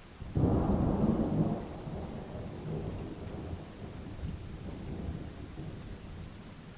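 A thunderclap over steady rain: a sudden loud peal breaks about a third of a second in, stays strong for about a second, then trails off into a long, slowly fading low rumble.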